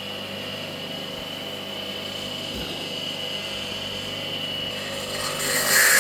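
An electric motor running steadily with a thin high whine over a low hum. About five seconds in, a loud rushing hiss rises and takes over.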